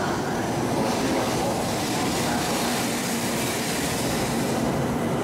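700 series Shinkansen Rail Star train pulling into the platform, its cars rolling past with a steady rumble and rush.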